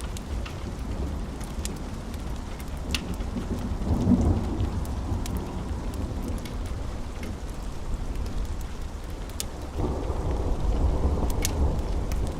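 Steady rain with low rolling thunder, swelling about four seconds in and again near the end, and a few sharp crackles from a wood fire.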